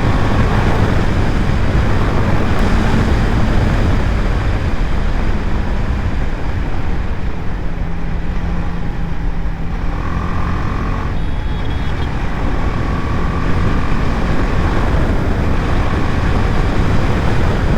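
Wind rush and the BMW G 310 GS's single-cylinder engine running steadily while the motorcycle is ridden along the highway. A brief higher tone sounds about ten seconds in.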